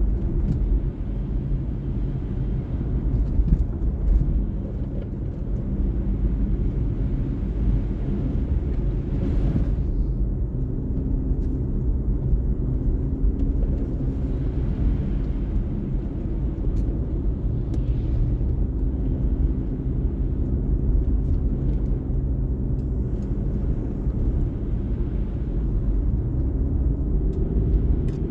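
Car being driven: a steady low rumble of engine and tyres on the road, with a brief hiss about nine seconds in.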